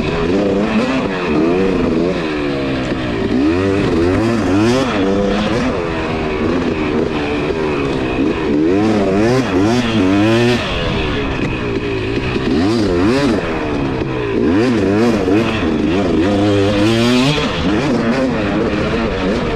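Two-stroke dirt bike engine revving up and dropping back again and again as the rider works the throttle through the trail.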